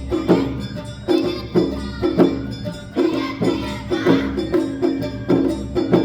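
Awa Odori festival accompaniment: shamisen, drums and other traditional instruments playing the dance tune with a steady beat of strikes about twice a second.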